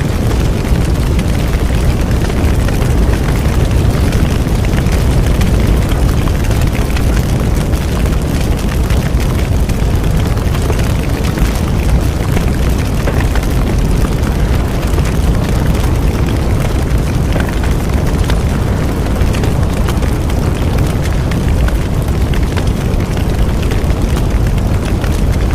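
A bonfire burning steadily: a constant low rumble of the flames with dense crackling and popping from the burning wood.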